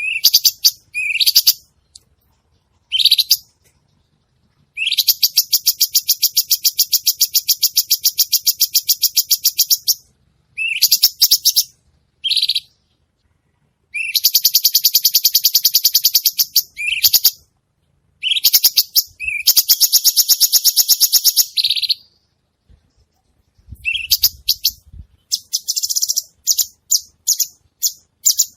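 Cucak cungkok songbird singing vigorously: short high phrases alternating with long rapid trills of repeated chips, each trill lasting several seconds, with silent pauses in between.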